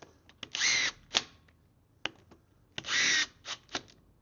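Cordless drill-driver run in two short bursts about two seconds apart, each with a steady whine, with sharp clicks and taps between them.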